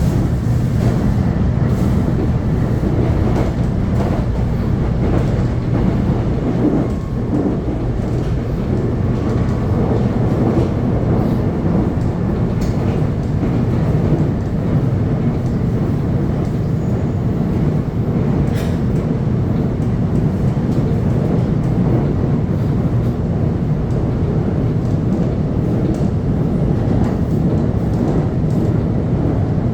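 Electric commuter train running steadily along the track: a continuous low rumble of wheels on rails and running gear.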